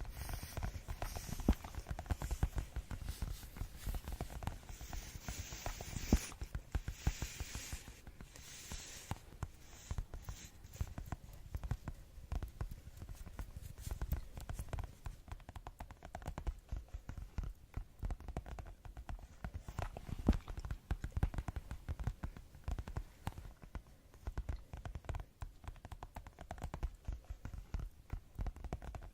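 Fast ASMR tapping: quick, irregular light taps, many a second, without a break.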